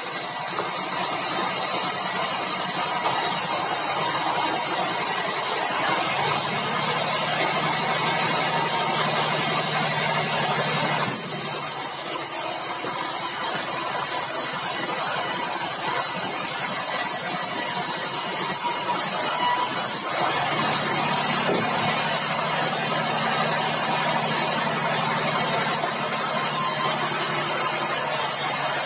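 Sawmill bandsaw machinery running steadily, a continuous mechanical noise with a low hum that drops out about eleven seconds in and comes back around twenty seconds.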